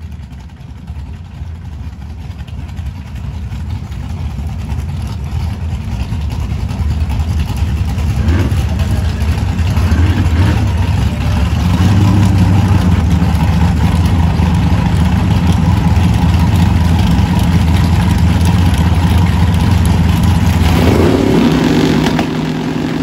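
Two drag cars' Chevrolet small- and big-block V8 engines running at the starting line, growing louder over the first dozen seconds and then holding steady. Near the end they rev up, rising in pitch as they launch.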